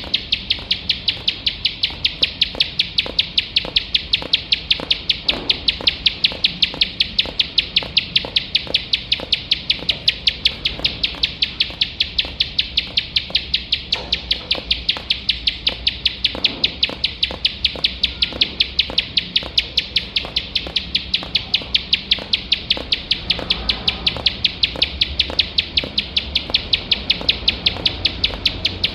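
Ciblek sawah (a prinia) calling without pause: short, sharp, high notes repeated evenly, about three a second.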